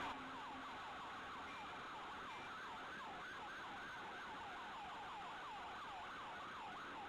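Emergency vehicle siren on the fast yelp setting: a rapid, steadily repeating up-and-down wail, several cycles a second.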